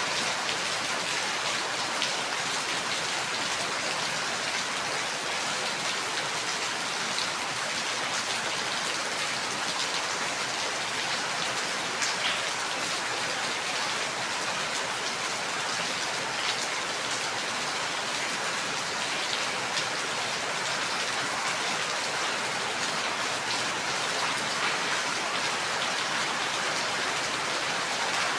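Steady, even rainfall: a continuous hiss of rain with individual drops ticking through it.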